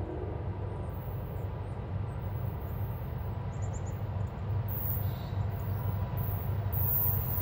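Distant Norfolk Southern diesel freight locomotives approaching, a low steady engine rumble that slowly grows louder.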